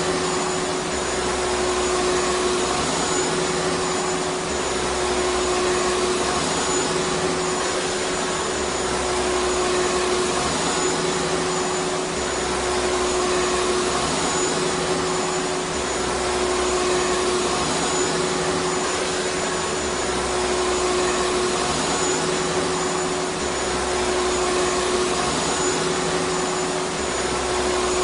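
Vacuum cleaner running steadily: an even rushing of air with a constant motor hum, and a faint low rumble that comes and goes every few seconds.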